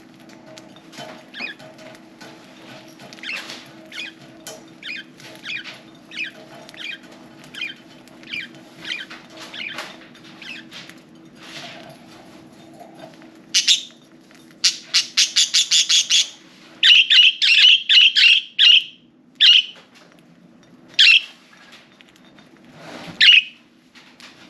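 Budgerigars chirping: soft chirps spaced about twice a second at first, then from about halfway a loud quick run of chirps followed by several separate loud calls. A steady low hum runs underneath.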